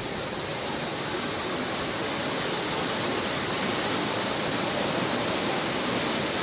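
Steady rush of falling water, as from a waterfall, a continuous even hiss.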